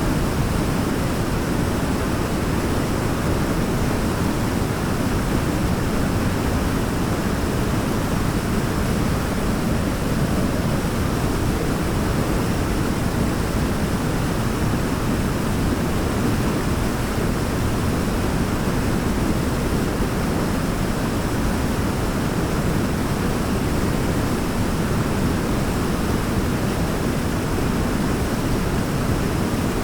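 A waterfall's steady rush, an even, unbroken noise weighted toward the low end.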